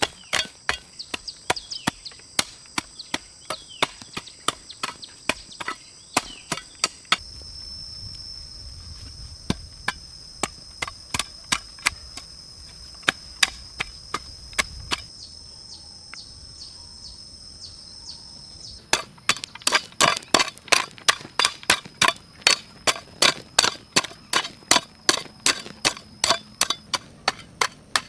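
Quick, regular chopping strokes on wood, about three to four a second, over a steady high-pitched whine. The strokes are sparser through the middle of the stretch.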